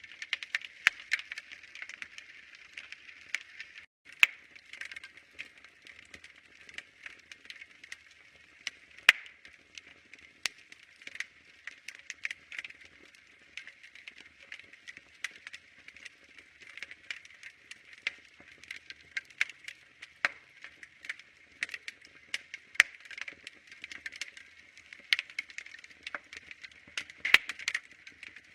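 Wood fire crackling: irregular sharp pops and snaps, some much louder than others, over a soft steady hiss.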